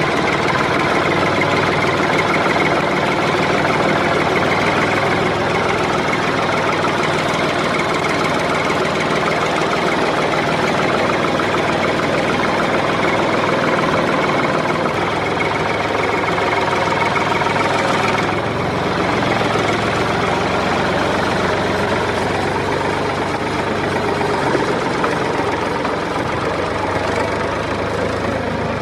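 A tractor-type engine running steadily with a fast knocking chug, its note shifting slightly about 18 seconds in.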